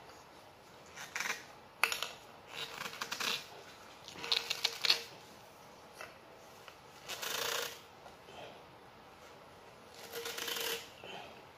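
PVC pipe fittings being handled and pushed together: irregular clicks, knocks and scrapes of plastic parts in several short bursts.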